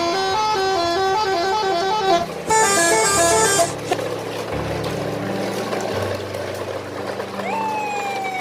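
A vehicle horn plays a short tune in quick stepped notes, then a second, higher-pitched one. After that a vehicle runs with a low steady rumble, and a siren starts near the end, sweeping up sharply and then falling slowly.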